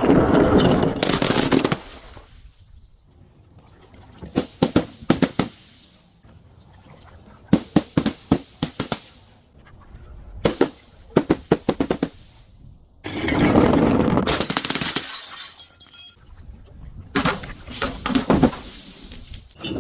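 Glass and other crunchy objects being crushed and breaking. Clusters of sharp cracks and crunching come every few seconds, with longer bursts of shattering at the start and about two-thirds of the way through.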